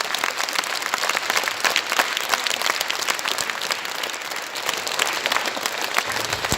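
Audience applauding: many hands clapping in a dense, steady clatter, with a low steady hum coming in near the end.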